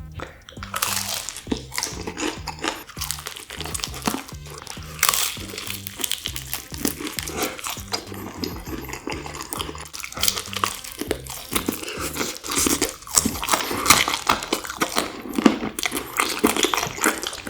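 Close-up crunching of crispy fried food being bitten and chewed, many irregular crunches, over soft background music with a stepping bass line.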